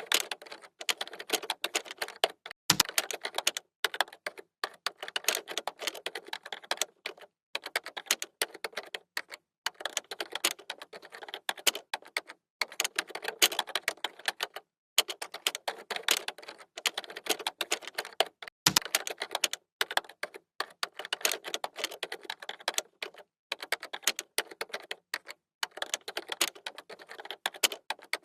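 Computer keyboard typing: rapid key clicks in runs of a few seconds broken by short pauses. Twice a heavier key strike lands with a dull thud.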